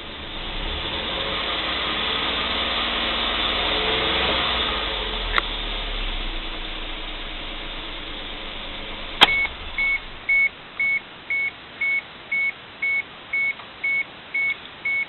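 Mazda AZ-Offroad's 660 cc three-cylinder turbo engine running, rising in level for a few seconds and then settling. A sharp click comes about nine seconds in, and the engine sound dies away. A high electronic warning beeper then sounds steadily about twice a second.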